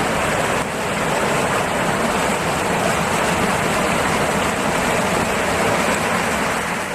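Floodwater rushing steadily, a loud even noise with no break.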